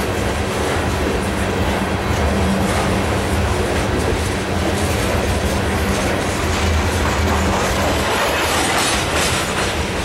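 Loaded covered hopper cars of a limestone freight train rolling past on steel wheels: a loud, steady rumble with the clickety-clack of wheels over the rail.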